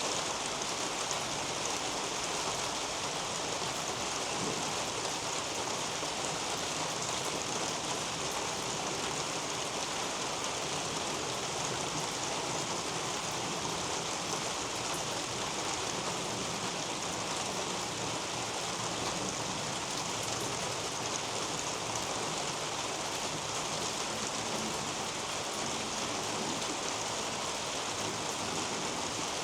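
Steady rain falling on garden leaves and a roof overhead: an even hiss made of countless small drop ticks, with no change in strength.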